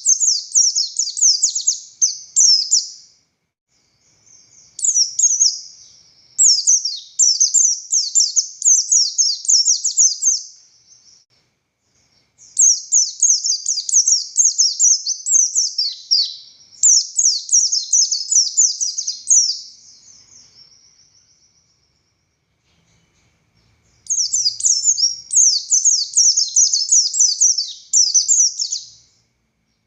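Pleci buxtoni white-eye singing: four long bouts of rapid, high-pitched twittering separated by short pauses.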